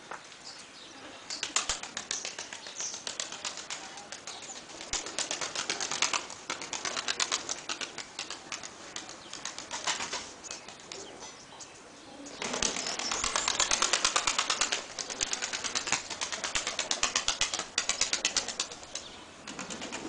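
Takla tumbler pigeons flapping their wings in several runs of rapid wingbeats, the loudest run about two-thirds of the way through.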